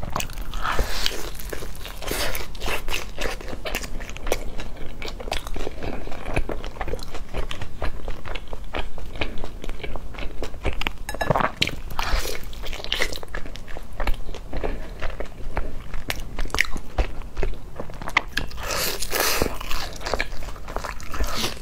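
Close-miked biting and chewing of a browned, glazed piece of food, heard through a lapel microphone as a steady run of short clicks and crackles.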